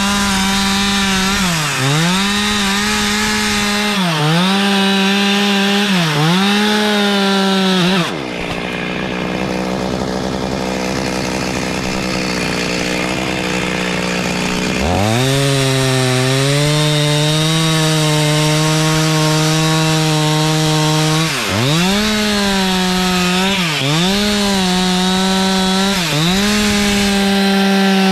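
Chainsaw running at full throttle and cutting wood, its pitch dipping and recovering every couple of seconds as the chain bites under load. About eight seconds in it drops to idle for several seconds, then revs back up and holds a lower steady note under heavier load, with more dips near the end.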